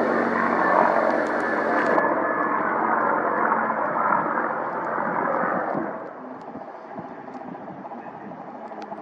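Aircraft engine noise, loud and steady with a faint whine, dropping away sharply about six seconds in as the aircraft moves off.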